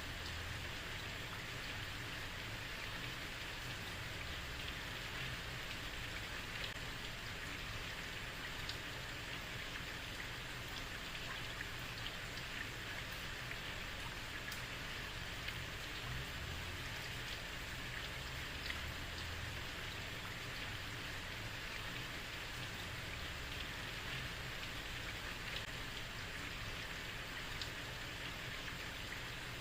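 Heavy rain falling steadily on a street, an even hiss with scattered drop ticks and a low rumble underneath.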